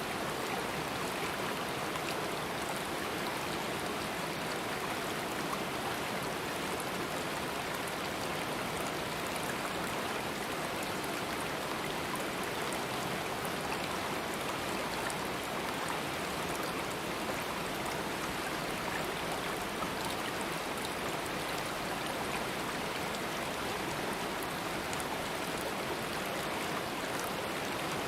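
A stream of water running over rocks, a steady rushing flow with small splashes and trickles.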